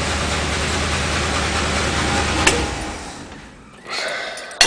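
Ford 429 Thunderjet V8 idling, then switched off with a click about two and a half seconds in and dying away. A sharp click comes near the end.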